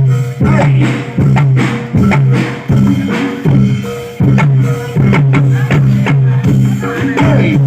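Live reog gamelan ensemble playing: drums and struck percussion beat out a rhythmic pattern over a steady low pitched tone, with a melody line above.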